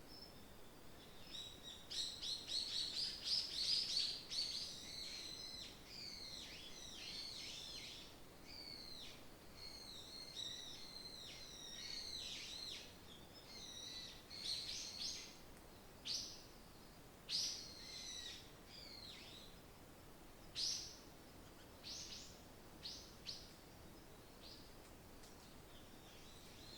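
Small forest birds singing and chirping: a dense run of overlapping high chirps and trills in the first few seconds, then scattered single calls, over a faint steady background hiss.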